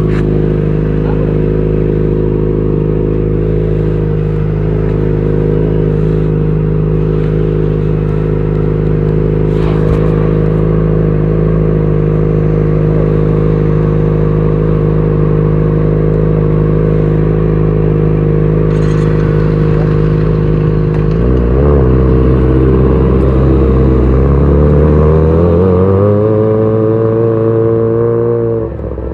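Kawasaki ZX-25R's 249 cc inline-four engine running steadily at idle, then about twenty seconds in the revs climb slowly and hold high, with a brief drop in revs and loudness near the end.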